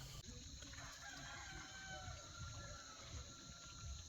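A rooster crowing once: a single faint, long drawn-out call that falls slightly in pitch toward its end.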